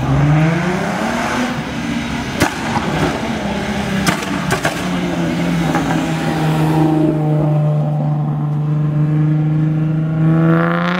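Sports car engines accelerating away: an engine note climbing in pitch over the first second or so, a few sharp cracks a couple of seconds in, then an engine held at a steady high note for the last six seconds.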